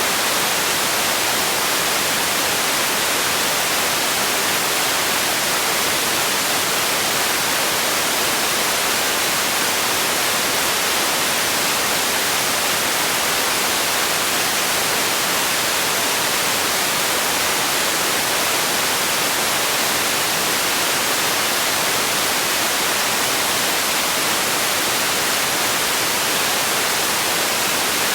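Steady white noise made for sleep: an even, unchanging hiss, bright and with little bass.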